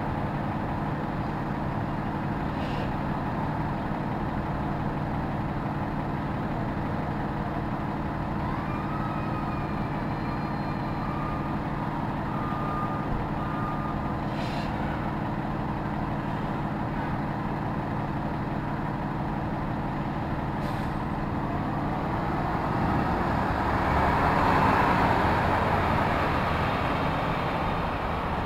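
City street traffic: a vehicle engine idling with a steady low hum, with a few faint high squeals and ticks in the middle. About twenty-three seconds in, the hum gives way to a passing vehicle's rush that swells and fades.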